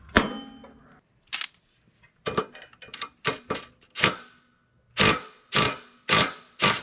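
Metalwork on a riding mower's deck spindle and pulley: one loud ringing metal clang, then about a dozen short, sharp blows at uneven spacing, coming faster near the end.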